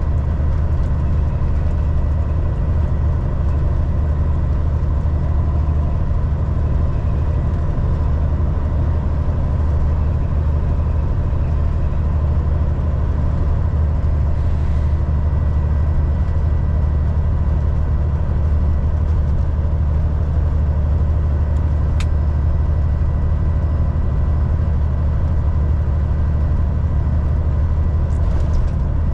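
Volvo VNL 760 semi-truck cruising at highway speed: a steady low engine and road drone with a faint steady whine over it. A single short click comes late on.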